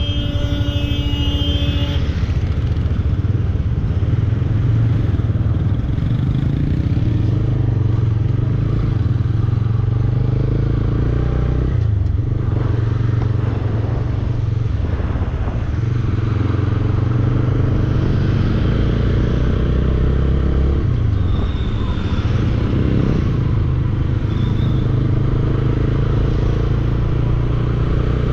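Bajaj Dominar 400's single-cylinder engine running under way, recorded from the bike. Its note drops and picks up again twice, about twelve and twenty-one seconds in.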